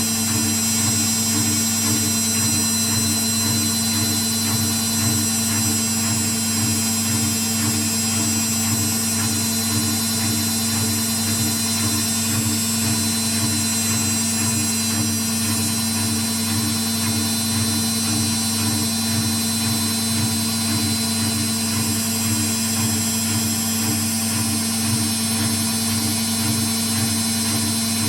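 Indesit WIU81 washing machine spinning on its 800 rpm quick programme: a steady motor hum with a fast, even throb from the turning drum, unchanging throughout.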